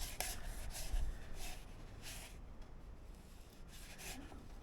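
Faint handling noises: a few brief, soft rustles and scrapes.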